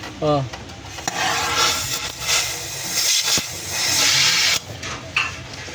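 A rough, hissing rubbing noise that swells and eases for about three and a half seconds, then stops, with a brief voice sound just at the start.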